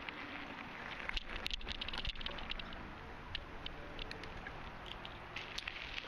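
Bicycle rolling along a trail, heard from a camera clamped to its handlebar: steady tyre and ride noise with irregular sharp clicks and rattles, thickest a second or two in, from the camera shaking in its mount with the bike's vibration.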